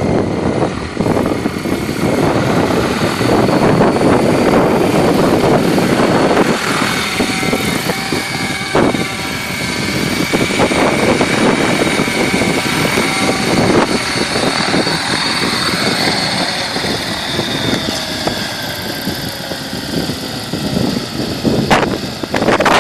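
Align T-REX 800 radio-controlled helicopter in flight: a steady high whine from the rotor and drivetrain, with the pitch gliding as it manoeuvres. Heavy wind rumbles on the microphone underneath.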